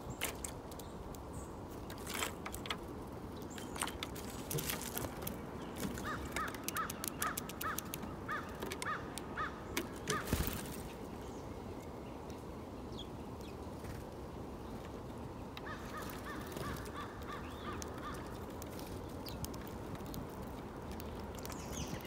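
Backyard birds calling: a run of short repeated calls at about two a second, over many sharp chirps and clicks, with a second stretch of calls later on.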